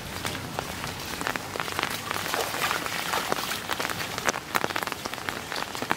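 Steady rain falling, a dense patter of individual drop ticks over an even hiss, growing busier toward the end.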